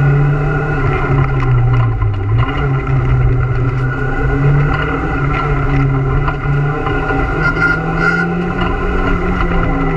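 Renault Super 5 GT Turbo's turbocharged 1.4-litre four-cylinder engine under hard driving, heard from inside the stripped cabin. The note rises and falls with the throttle, with a short drop a little over two seconds in.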